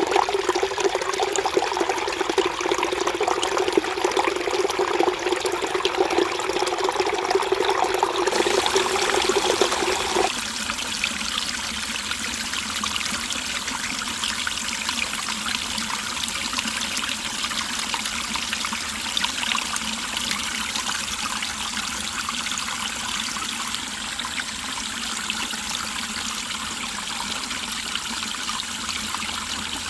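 Mountain stream flowing and trickling over rocks. About ten seconds in, the sound changes from a louder, lower gurgle to a softer, more even rush.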